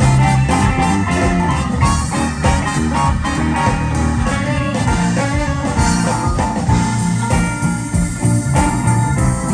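Live blues-rock band playing an instrumental passage, led by guitar over bass and drums.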